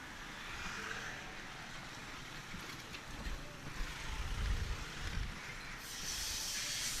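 Wind rumbling in gusts on an action camera's microphone while riding a BMX bike along a street, over a steady hiss of traffic and road noise. The hiss grows brighter and louder near the end.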